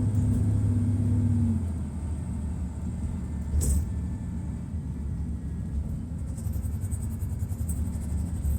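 Detroit Diesel Series 60 inline-six diesel in an MCI D4000 coach running with a deep, steady rumble. It is louder for the first second and a half, then eases off, with a thin high whine above it throughout and one brief sharp click or hiss about three and a half seconds in.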